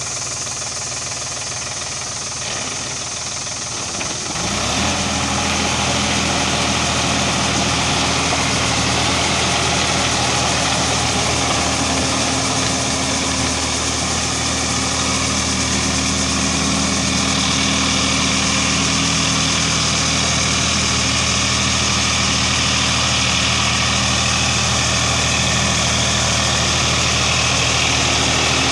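Sonalika DI 50 RX tractor's diesel engine running. About four seconds in its pitch rises briefly and it gets a little louder, then it runs steadily at an even speed.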